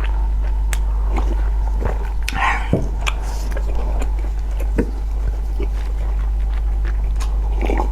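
Close-up mouth sounds of a person eating hard-boiled egg: scattered wet clicks and smacks of chewing. A steady low hum runs underneath.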